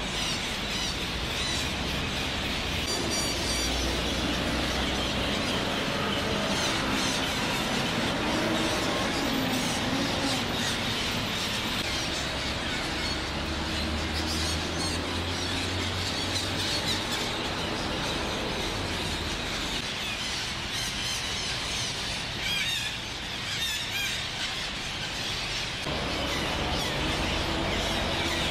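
A large flock of red-breasted parakeets calling together: a dense, unbroken chorus of loud, harsh squawks.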